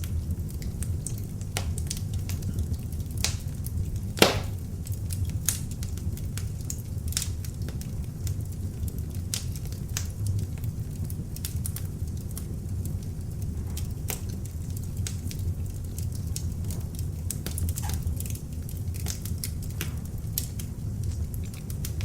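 Beech-wood log fire burning in a fireplace: a steady low rumble of the flames with frequent irregular crackles and pops, one louder pop about four seconds in.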